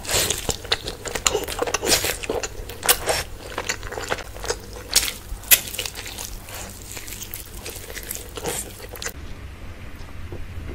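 Close-miked eating: wet chewing with sharp, crisp biting and crunching sounds coming irregularly, several a second. About nine seconds in, it gives way to quieter, duller chewing.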